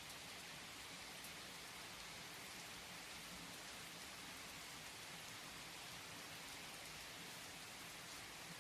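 Steady rainfall, a soft even hiss of rain with faint scattered drop ticks.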